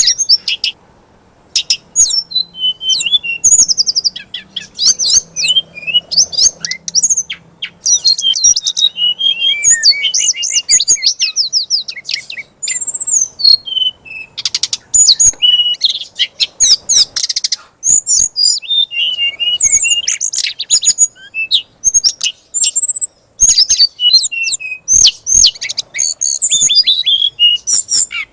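Songbird in full 'fighter' song, the kind used to provoke a magpie-robin: a dense, unbroken stream of rapid, varied chirps, whistled sweeps and trills.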